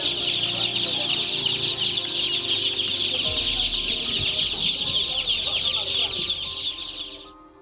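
A flock of about 250 two-week-old poultry chicks cheeping all together in a dense, continuous chorus, cutting off suddenly near the end.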